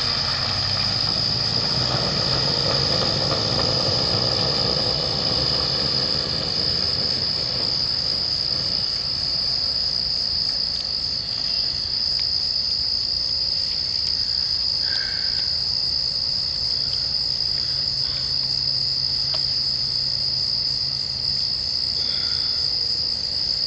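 A steady, high-pitched insect chorus that runs on unbroken, the continuous trill of crickets or similar night-singing insects.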